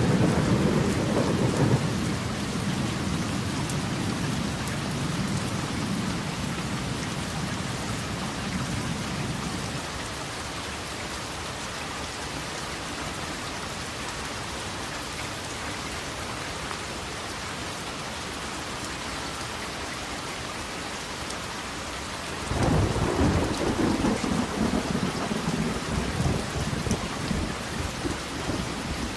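Steady rain falling, with thunder rolling over it: a low rumble at the start dies away over about ten seconds, and another breaks in suddenly about 22 seconds in.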